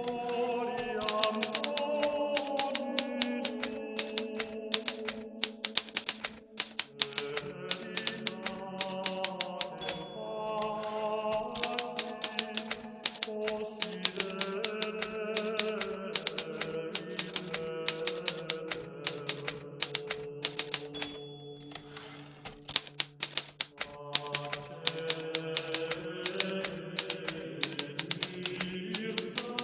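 Hermes Baby portable typewriter typing in quick runs of keystrokes with brief pauses, over slow, soft background music.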